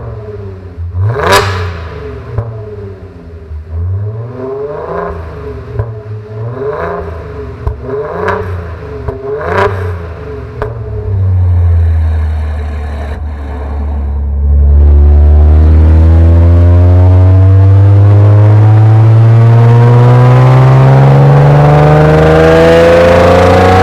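Audi A7 engine through an aftermarket CONIC valved exhaust: about six sharp throttle blips, each a quick rise and fall in revs. A few seconds of lower running follow, then a loud, long pull with the revs climbing steadily.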